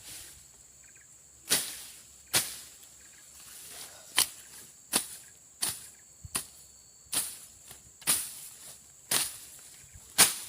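A machete slashing through brush and grass in quick strokes, about ten in all, roughly one a second. Insects chirr steadily and faintly behind them.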